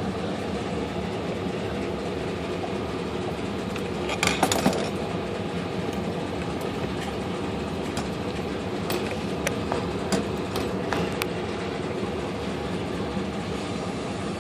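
A steady machine hum with light metallic clinks and ticks as small typewriter parts are handled. The clinks come in a short cluster about four seconds in, then as scattered single ticks later.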